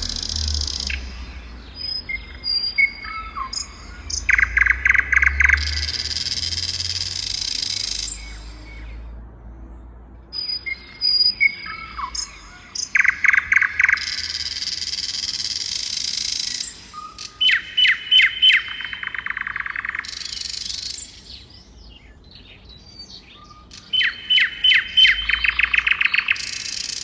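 A songbird singing the same phrase over and over: a rapid stutter of short sharp notes running into a drawn-out buzzy hiss, repeated about every six to ten seconds with quieter gaps between.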